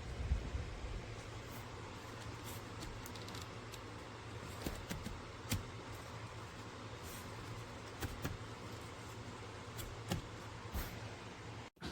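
A steady low mechanical hum under an even hiss, with scattered light clicks and taps.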